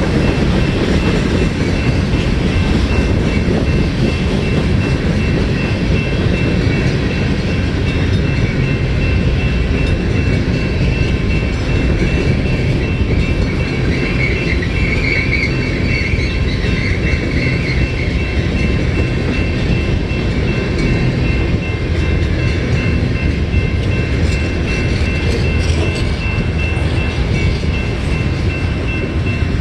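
Union Pacific freight cars rolling past: a steady rumble and clatter of steel wheels on rail, with a thin steady whine and a brief wheel squeal about halfway through.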